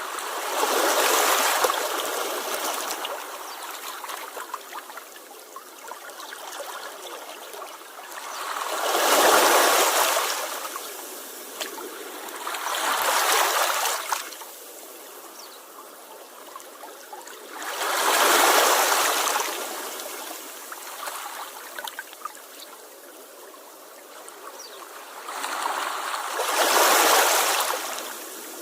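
Small sea waves washing up on the shore: five swells of rushing surf several seconds apart, with a softer fizzing wash between them.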